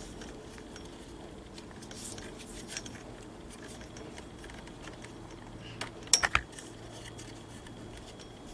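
Small metal clicks and clinks of tools and parts being handled, with a quick cluster of sharper clicks about six seconds in.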